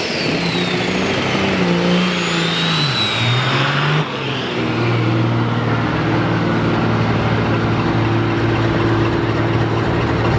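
Drag-racing engines at a drag strip revving, their pitch falling and rising, with a high whistle arcing over them. About four seconds in this changes abruptly to a steady engine drone.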